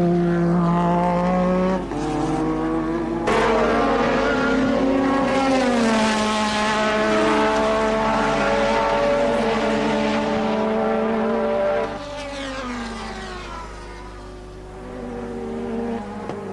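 1984 Formula One cars' engines running at racing speed, several engine notes overlapping and rising and falling with throttle and gear changes. The sound changes abruptly about 2 and 3 seconds in, and near the end it drops in level as the engine note falls away.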